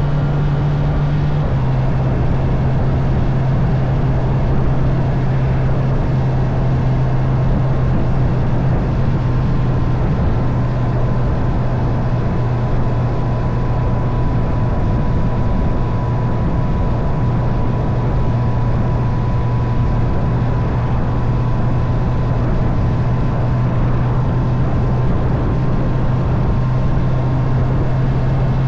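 Honda CB650R's inline-four engine running at a steady cruising speed under a constant rush of wind and road noise. The engine note steps down slightly about a second and a half in, then holds even.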